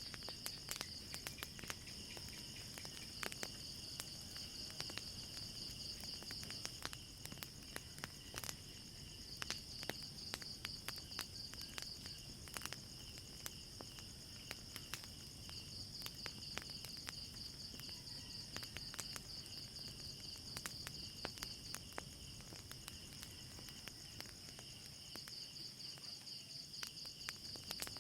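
Crickets trilling steadily in a night chorus, swelling and fading in waves, with frequent irregular crackles and pops from a burning fire.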